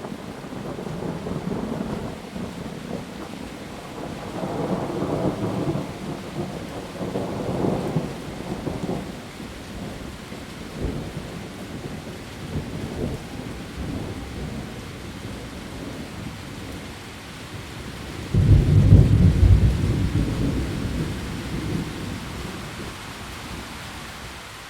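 Heavy rain falling steadily on leaves, with thunder rolling through: long low rumbles early on, then a sudden loud crack of thunder about three quarters of the way through that dies away over a few seconds.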